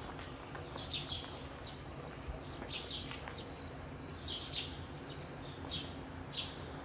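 Small birds chirping: short, high, falling chirps repeated every second or so, often in pairs, over a steady low background hum.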